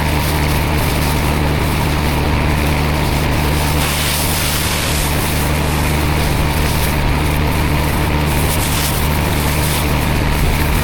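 Petrol pressure washer engine running steadily, with the hiss of high-pressure water spray that swells and fades a few times.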